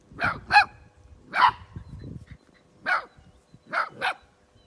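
Small dogs barking in short, high-pitched yaps, about six of them at uneven intervals.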